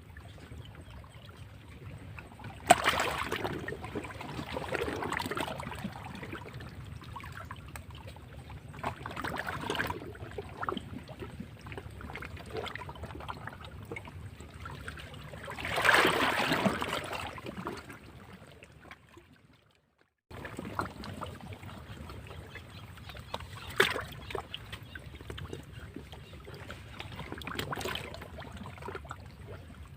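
Sea waves washing and breaking against rocks: a steady wash with several surges, the loudest about halfway through, and a sharp-edged splash near the start. It cuts out briefly to silence about two-thirds of the way in, then the waves resume.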